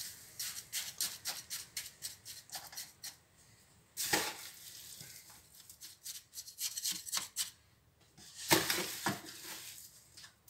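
Gritty refractory mix being scooped and scraped with a tool in a container: a run of short scrapes and clicks, with two louder dumps of the mix about four and eight and a half seconds in.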